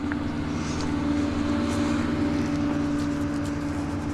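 A vehicle engine running steadily at idle, a constant even hum with no change in pitch.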